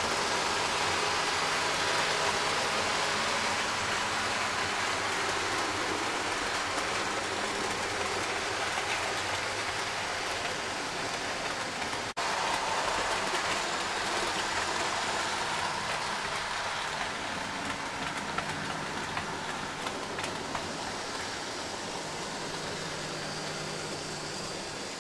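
Model railway train running through a station: the steady whirring rush of an old model diesel locomotive's motor and its wheels rolling on the track, with faint ticks. A brief break about twelve seconds in, and the sound eases a little toward the end.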